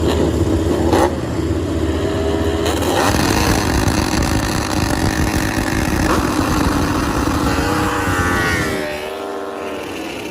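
MotoGP racing motorcycle engines running at high revs, the pitch rising and falling through gear changes, with a sharp crack about a second in. The sound gets quieter near the end.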